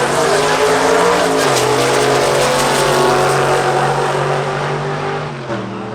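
Drag racing engine running loud. Its pitch steps down about a second and a half in, and again near the end as it gets quieter.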